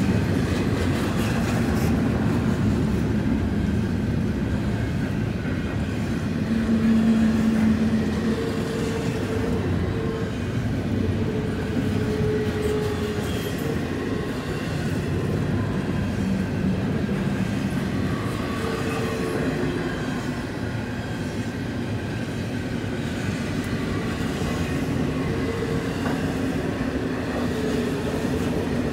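Freight cars of a slow-moving CN train rolling past: double-stack container well cars, then autoracks near the end, with a continuous rumble and clatter of wheels on rail. Short steady tones come and go now and then as the wheels take the curve, loudest about seven seconds in.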